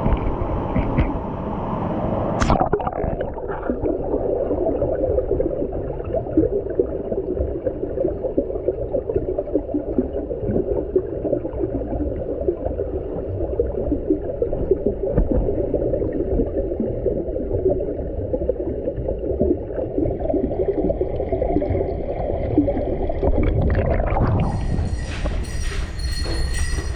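Mountain stream heard from underwater: a steady, muffled gurgling and bubbling with no treble. Near the end the sound opens up again and music comes in.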